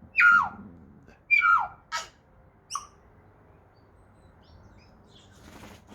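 Tui calling: two falling whistled notes in the first two seconds, then a sharp click and a short high note.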